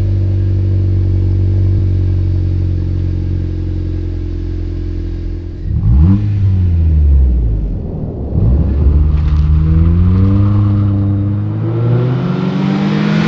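Exhaust note of a Honda Civic 1.5-litre turbo four-cylinder through a 27WON cat-back exhaust. The engine holds steady revs for about five seconds, gives one quick rev that rises and falls, then climbs smoothly in revs.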